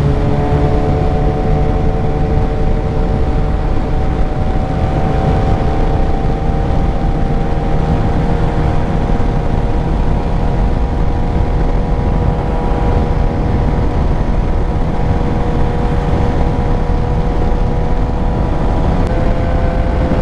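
Suzuki GSX-R 600 inline-four engine running at steady revs while riding, with heavy wind noise on the microphone. The engine pitch holds steady, with a small shift about a second before the end.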